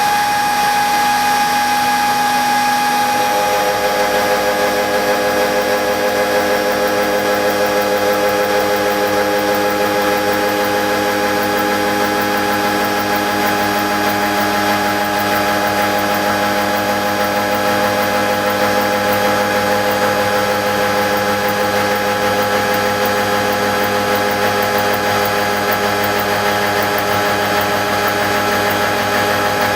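Milling machine cutting gear teeth with a CoroMill 176 indexable insert cutter: a steady machine whine of several held tones over a hiss, with a lower set of tones joining about three seconds in.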